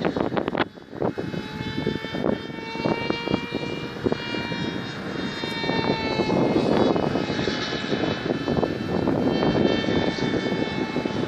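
Small propeller aircraft engine droning in flight, its pitch shifting slightly partway through, with wind buffeting the microphone.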